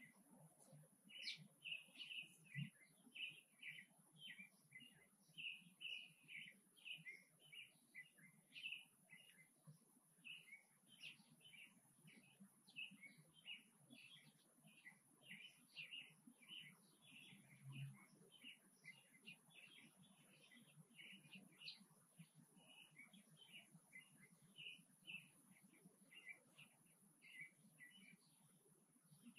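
Faint, repeated bird chirping: short sharp chirps, roughly two or three a second, keeping up without a break, over a steady high hiss.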